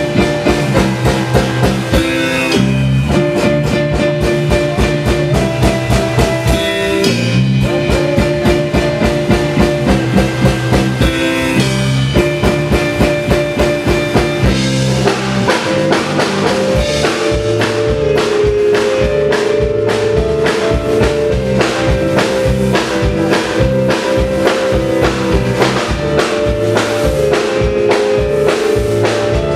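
Live piano-rock trio playing an instrumental passage: drum kit keeping a fast, steady beat under held piano and bass notes.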